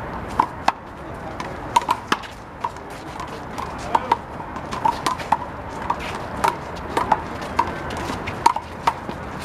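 A handball rally: the big blue rubber handball smacked by hands and bouncing off the wall and court in a run of sharp, irregularly spaced slaps, one to three a second.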